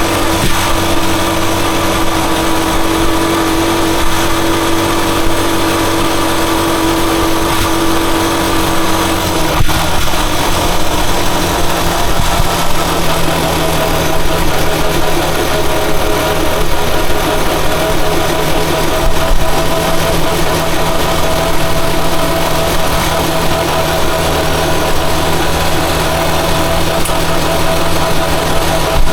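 Rusi Chariot 175 motorcycle engine running steadily, its note changing in a single step about a third of the way through and then holding steady.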